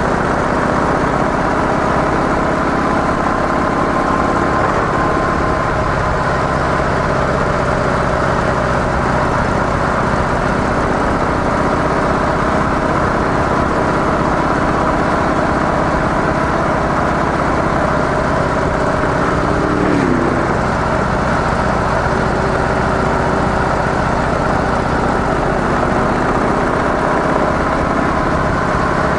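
Harley-Davidson CVO Softail's air-cooled V-twin engine, through its stock exhaust, running steadily with a broad rush of noise, its pitch drifting only slightly. About twenty seconds in, a short falling tone passes.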